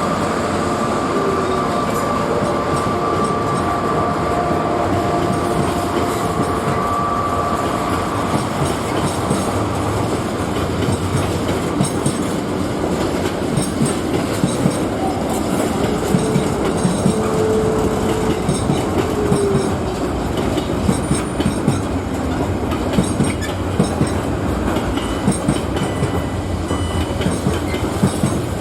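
A train running by on the rails: a continuous rumble of wheels on track, with held whining tones in the first few seconds and a run of clicks from the wheels over rail joints from about twelve seconds in.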